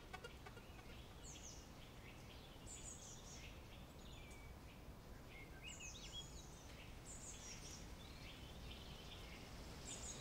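Faint birdsong: short, high chirps, many sliding downward, coming every second or so over a low, steady outdoor background.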